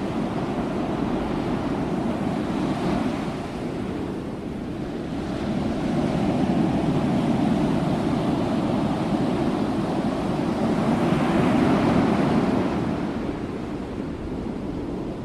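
Ocean waves breaking and washing on the shore, the surf swelling louder for several seconds in the middle and then easing back.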